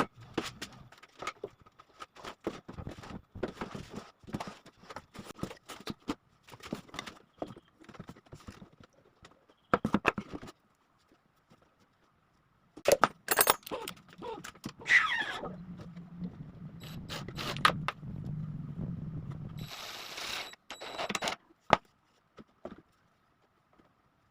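Workshop handling noises: irregular clicks, knocks and scrapes as tools and parts are picked up and worked, with a low hum for a few seconds past the middle.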